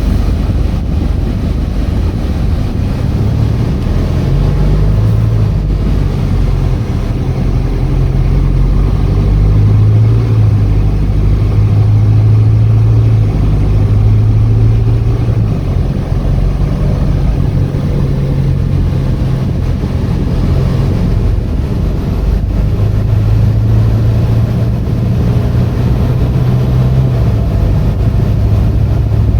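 2018 Hino 155 box truck's diesel engine running under way with road noise, a loud, steady low drone whose pitch steps up and down several times as the truck changes speed.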